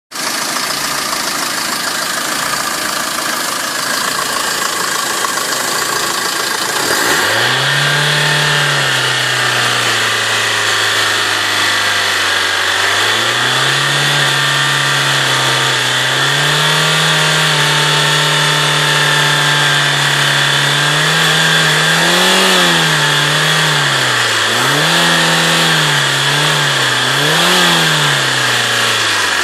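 A motor running over a steady rushing noise. About seven seconds in, its running note comes in and climbs; it then sags, picks up again, and near the end surges up and down several times, an unsteady, hunting speed.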